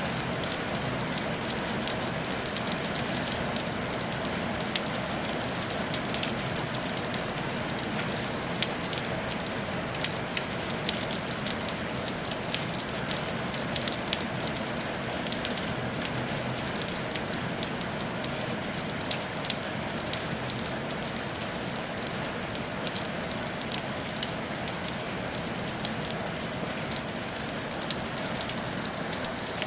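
Steady rain falling on a tile roof: a constant hiss with many separate drop taps.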